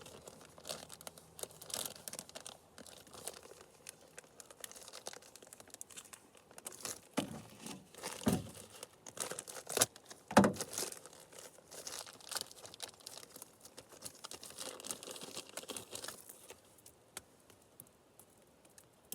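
Packaging crinkling and tearing as a new chainsaw chain is unwrapped, in an irregular run of rustles and crackles with a few louder rips in the middle.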